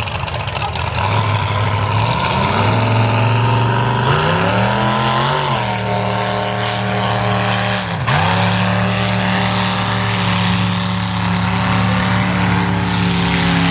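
Mud bog truck's engine revving hard under load in the mud pit. Its pitch climbs over a few seconds, drops sharply about eight seconds in, then rises again and is held at high revs.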